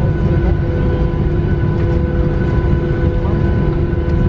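Airliner cabin noise: a loud, steady low rumble with several constant whining tones above it.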